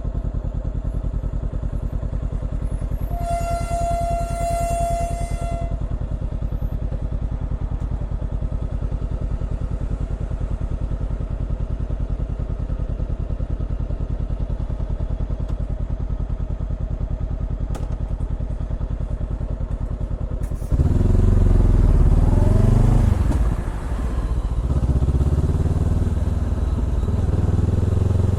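Honda CBR400R parallel-twin engine through a Trick Star Ikazuchi exhaust, idling steadily, then revving and accelerating hard about 21 seconds in, its pitch rising and falling with a brief dip before pulling again. A steady high tone sounds for a couple of seconds a few seconds in.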